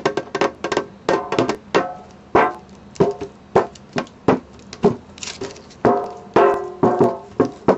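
A springform pan, still in its wrapping, played as a percussion instrument: quick, uneven taps and strikes, each ringing briefly with a few metallic pitches.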